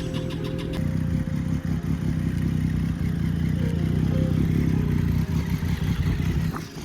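Motorcycle engine running nearby, getting louder about a second in and holding a steady note.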